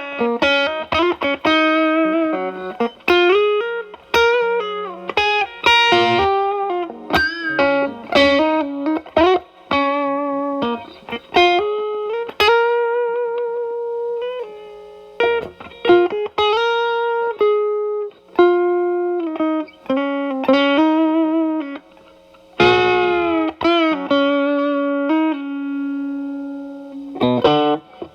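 Electric guitar, a Telecaster, played through an E.W.S. Brute Drive distortion pedal with its gain at about 10–11 o'clock into a Marshall Valvestate amp's clean channel. It plays single-note lead lines with string bends and sustained notes, and a chord is struck late on.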